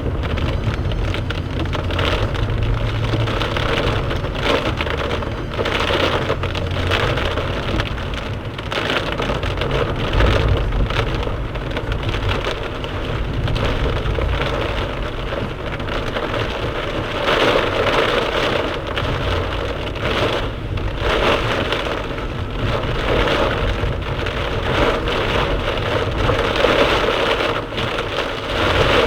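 Torrential rain drumming hard and steadily on a moving car's roof and windshield, heard from inside the car, over a low rumble of road and engine noise. The downpour swells a little heavier about two-thirds of the way through.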